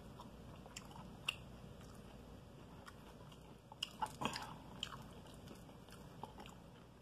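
Faint chewing of crispy fried chicken, with soft crunches and wet mouth clicks. A short cluster of louder crunches comes about four seconds in.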